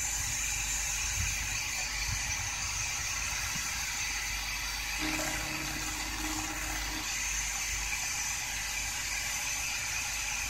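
Steady hiss and hum of interference noise from a 2014 Ford Focus ST's stereo speakers, fed by an aftermarket tablet through the Sync audio input, with the music paused. A faint low tone comes in about halfway through and lasts a couple of seconds.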